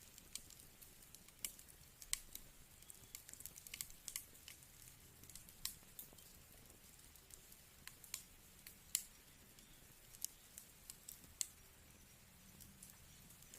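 Wood fire crackling in a fireplace: irregular small snaps and pops, several a second, over a faint low rumble, with a few sharper pops standing out.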